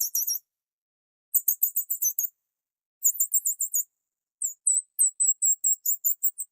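High-pitched chirping of a small bird, in four quick trilled bouts of rapidly repeated notes, with dead silence between the bouts.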